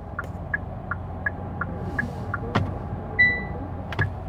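Turn-signal indicator of a 2020 Hyundai Sonata ticking in an even tick-tock, about three ticks a second, with a steady hum underneath. A short single beep sounds a little past three seconds in, and two sharper clicks stand out.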